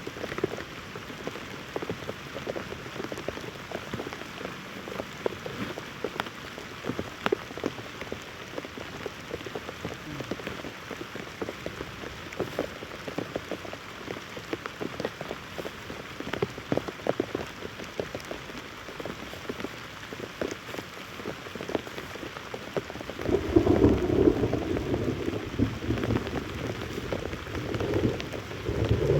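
Heavy rain falling, with many close drops landing as sharp taps. About twenty-three seconds in, a deep rumble swells up and becomes the loudest sound, easing and rising again toward the end.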